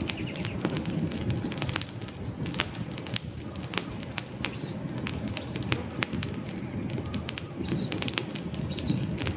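Wood campfire burning, with dense irregular crackles and pops over a steady low rush of flames. Faint short high bird chirps come a few times in the second half.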